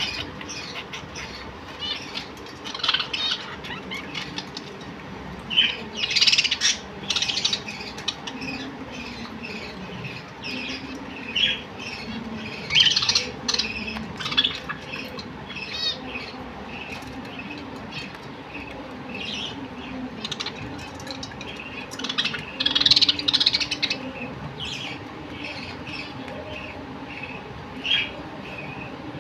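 Small birds chirping and squawking in short, irregular bursts, with clusters of busier calling now and then, over a faint steady hum.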